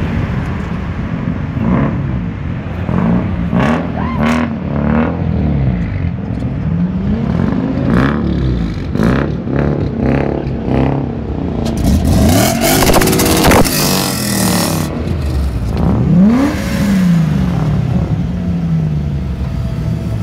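Modified cars revving their engines as they roll past one after another, the engine notes repeatedly rising and falling. A harsher, hissing burst comes about twelve to fifteen seconds in.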